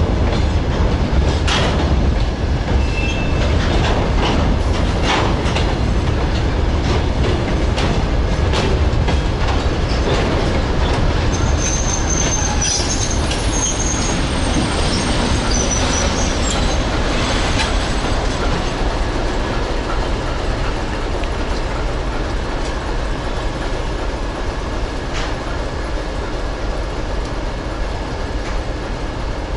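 Passenger train's carriages rolling past on departure, wheels clacking over rail joints, with brief high wheel squeals for a few seconds in the middle.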